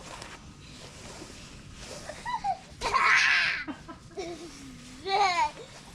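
A young child's wordless voice: babbling and high, gliding squeals, with a loud, noisy burst about three seconds in.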